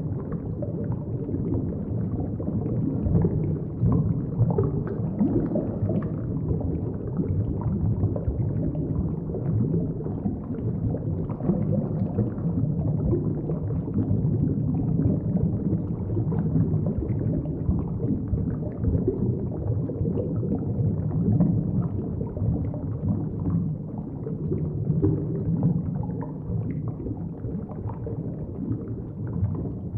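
Muffled low rumble and gurgle of moving water heard by a submerged camera, with no sharp or high sounds.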